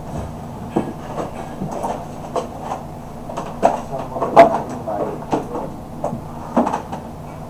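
Objects being handled and rummaged through, a string of irregular knocks and clatters, the loudest about halfway through.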